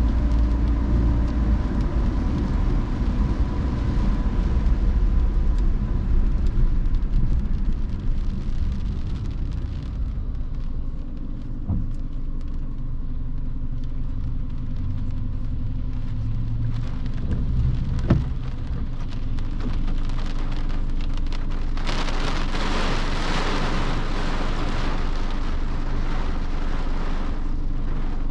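A car driving on a rain-wet road at night, with a steady low road rumble. There are two single knocks partway through, and a steady hiss comes in suddenly about three-quarters of the way in.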